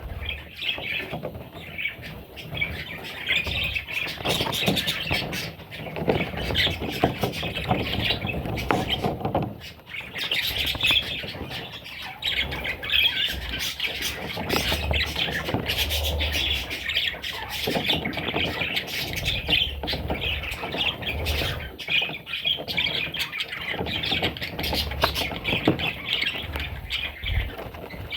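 Budgerigars squawking and chattering continuously, many raspy calls overlapping, with short clicks and scratches among them.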